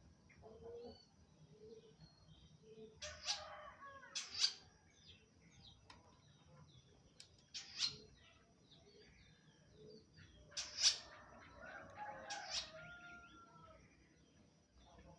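Long-tailed shrike singing in four or five loud bursts of rapid chattering notes, with softer twittering between them.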